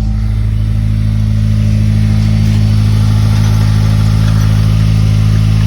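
Honda S2000 four-cylinder engine idling steadily through an aftermarket exhaust and test pipe, loud and deep.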